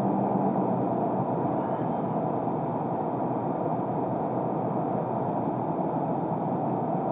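A car driving, heard from inside the cabin: steady engine and road noise, with a faint hum in the first couple of seconds.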